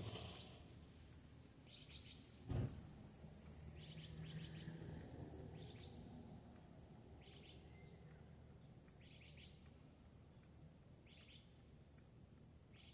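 A small bird chirping faintly: short bursts of three or four quick notes, repeated every couple of seconds, over near silence. A single low thump about two and a half seconds in.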